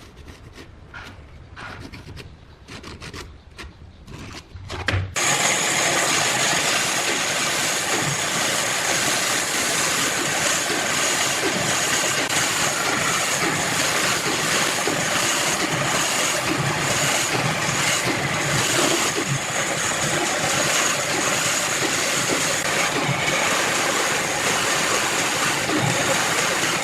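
Wood being worked: light knocks and scraping, then from about five seconds in an electric woodworking power tool running steadily on the wood, loud, with a high whine.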